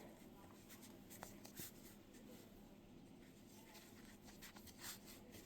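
Near silence with faint rustling and a few soft ticks of yarn and a yarn needle being handled during crochet work.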